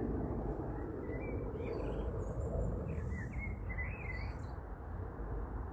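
Small birds chirping in a few short, wavering phrases in the middle, over a steady low outdoor rumble.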